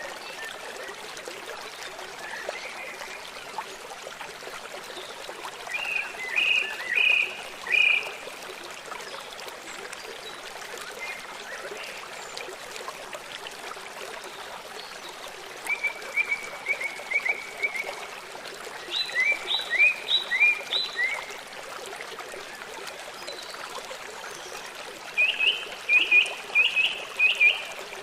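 River water flowing steadily, with a songbird calling over it in four short bouts of rapidly repeated high chirps.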